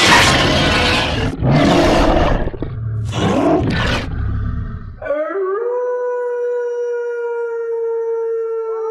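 Monster sound effects: a loud, rough roar in several surges, then a single long steady howl that rises at its start and holds one pitch for about four seconds.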